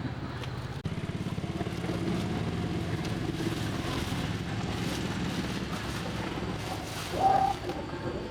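Small motorbike engine running steadily, with a rapid even pulse. A short voice-like call rises above it about seven seconds in.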